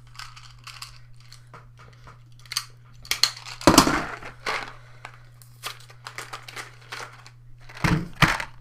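Crinkling and rustling of candy packaging being handled and opened, in many short crackles, with a few louder knocks about four seconds in and again near the end. A steady low hum runs underneath.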